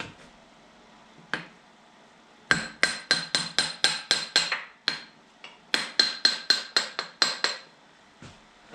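Hammer striking steel: one blow, then two runs of about ten quick blows, roughly four a second, each with a short metallic ring. It is driving out the pivot pin to free the hydraulic ram of a Kubota KX91-2 excavator.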